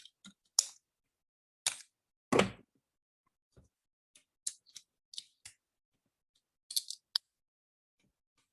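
Snap Circuits pieces being pulled off and pressed onto their snap connectors: about a dozen short, sharp clicks in irregular groups.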